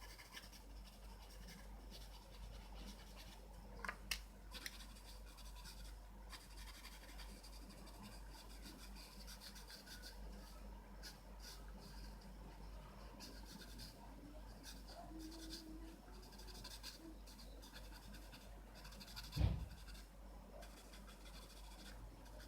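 Pencil scratching on paper in many short strokes, drawing lines. A couple of light clicks about four seconds in and one louder thump near the end.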